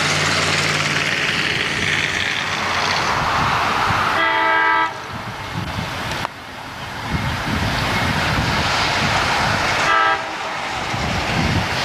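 Amtrak passenger train passing close by, its wheels and rushing noise loud throughout. The locomotive sounds its chord horn in a short blast about four seconds in and a brief toot near ten seconds.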